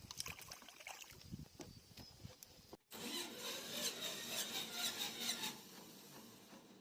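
Faint clicks and knocks. About three seconds in, after an abrupt cut, a small fishing-boat engine is heard running, loudest for a couple of seconds before easing off.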